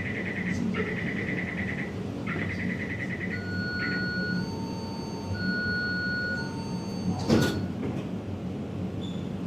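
Metro train interior: the door-closing warning beeps pulse rapidly for the first few seconds and stop. Steady high whining tones follow, then a loud thud about seven seconds in as the sliding doors shut, over the train's constant low rumble.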